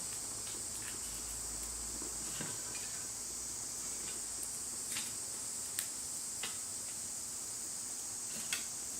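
Steady high-pitched chirring of insects, like crickets, with a few sharp clicks scattered through it, loudest about six and eight and a half seconds in.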